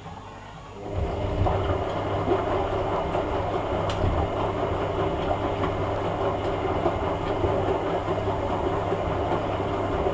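Hoover A3786 Logic Deluxe washing machine starting up about a second in, then running steadily with a low motor hum and a rumbling, clattering churn.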